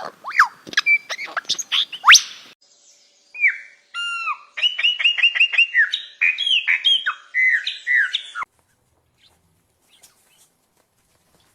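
Songbirds calling: sweeping whistled notes that slide up and down for the first couple of seconds, then after a short break a different run of quick repeated chirps until about eight seconds in, when the calling stops.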